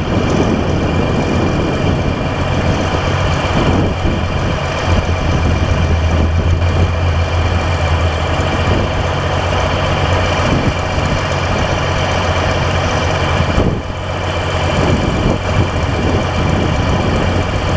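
Heavy diesel excavator engine running steadily, with a strong low hum and a brief break about fourteen seconds in.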